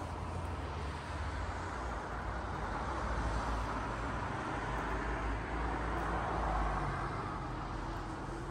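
The 327 V8 of a 1956 Ford F100 panel truck running with a deep, low exhaust note that swells over a few seconds and then eases off, as under way on the road.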